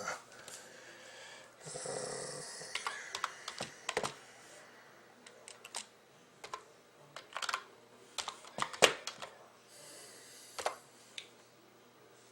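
Computer keyboard being typed on, keys clicking in irregular, unhurried bursts, with two brief soft hissing noises.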